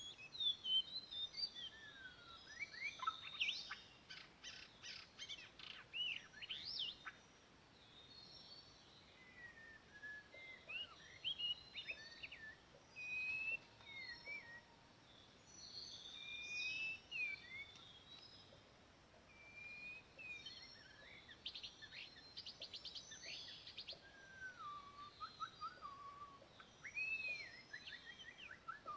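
White-rumped shama (murai batu) singing a varied song of clear whistles, rising and falling slides and rapid chattering trills, in phrases with short gaps between them.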